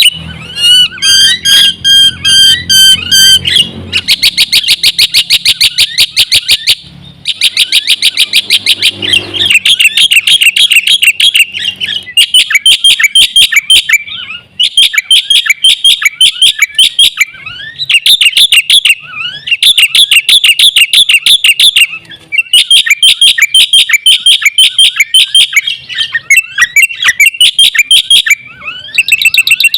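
Black-winged myna (jalak putih) singing loudly in long runs of rapid, repeated chirps, broken by short pauses every few seconds. Near the start it gives a short run of evenly pulsed whistled notes.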